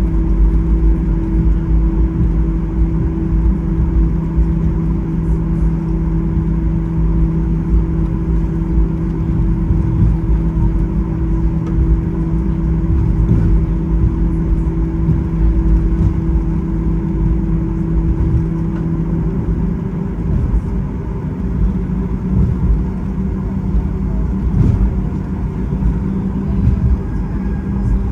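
Steady low rumble from inside a moving vehicle, with a constant hum over it; one strand of the hum drops away about two-thirds of the way through.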